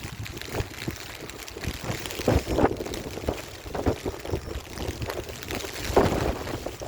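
Strong gusty wind blowing across the microphone, a rumbling rush that surges loudly in irregular gusts.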